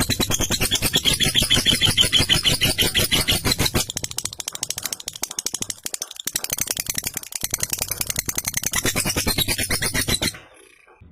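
Lovebird giving its long 'ngekek' song: a fast, continuous run of sharp chattering chirps that breaks off about ten seconds in.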